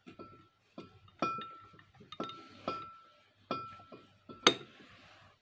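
Bare steel engine parts, the crankshaft and connecting rod, clinking as they are handled: a series of light metallic clinks, each with a short ring. The sharpest clink comes about four and a half seconds in.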